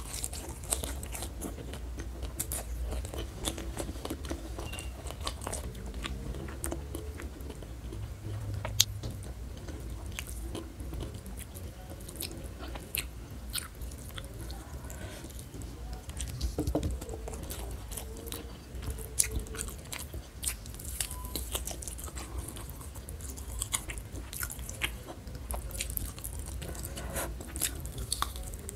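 A person chewing and biting food close to the microphone, with many small crisp crunches and mouth sounds scattered throughout.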